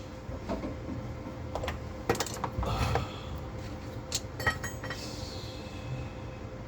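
Scattered metallic clinks and taps, about half a dozen, some with a short ring, as metal tools and parts are handled, over a faint steady hum.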